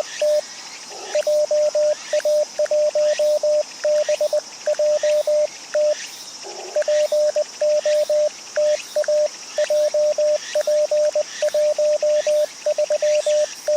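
Morse code (CW) from an amateur radio transceiver: a single-pitch beep keyed in quick dots and dashes at roughly 20 words per minute, pausing briefly about one and six seconds in.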